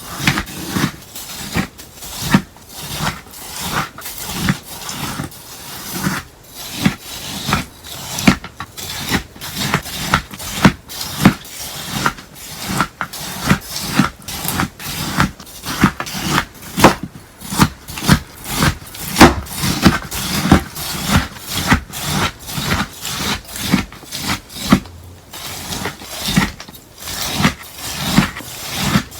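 Melamine sponge slime being pressed and worked with crisp crunches that repeat about one to two times a second.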